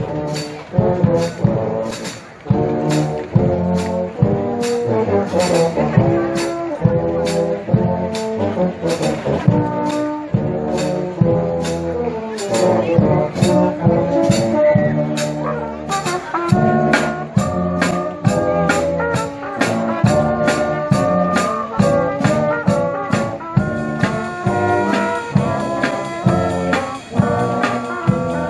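Marching band playing: brass section carrying the melody in held and moving notes over steady percussion strikes on the beat.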